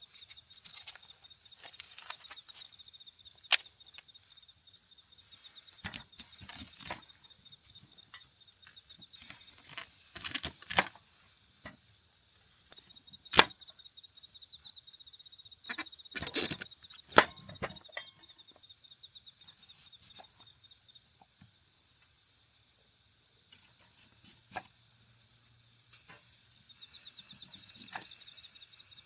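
Crickets chirping in a steady, high, pulsing trill, with sharp cracks and knocks every few seconds, the loudest a little past halfway.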